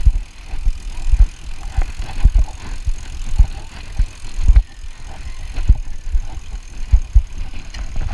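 Bicycle being ridden, with irregular low thumps and rumbles on the microphone, several a second, and light rattling ticks throughout.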